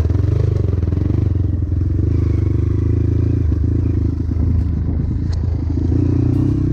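Trail motorcycle engine running steadily under way, with some clatter from the bike over rough ground.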